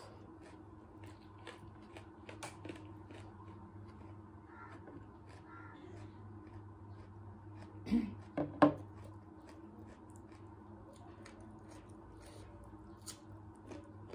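Close mouth sounds of eating with the hands: chewing, lip smacks and small wet clicks all through. About eight seconds in come a few louder sharp knocks, as fingers reach into a glass bowl. A low steady hum runs underneath.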